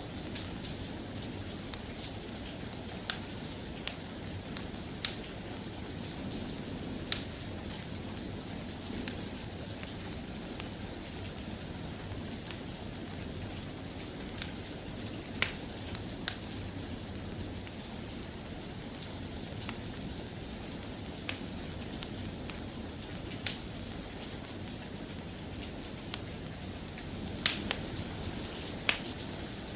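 Soft, steady rain falling, with scattered sharp pops and clicks every second or two, a few more near the end.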